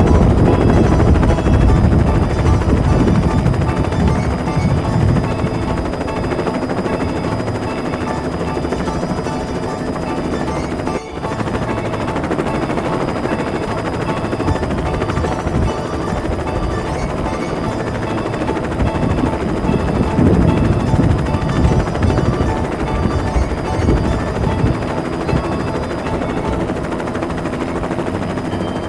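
Toy rescue helicopter's rotor sound effect, a continuous rapid chopping whir with steady tones under it. It breaks off for an instant about eleven seconds in.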